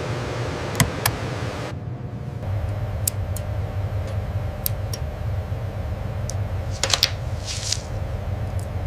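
A steady low hum with scattered sharp clicks, a quick pair about a second in and a cluster about seven seconds in, and a short hiss near the end.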